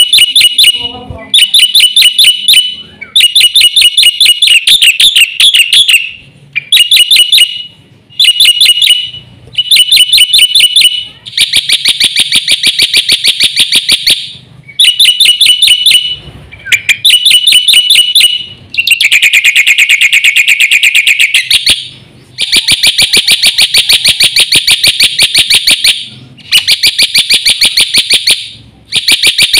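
Black-winged myna (jalak putih) singing loudly in full song: harsh, rapid rattling chatter delivered in phrases of one to three seconds with short pauses between them.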